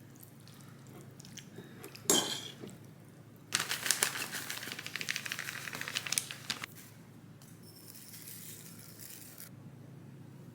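Kitchen handling sounds: a sharp clink about two seconds in, then a few seconds of crackly crinkling and tearing, like packaging being opened, with fainter rustling after it.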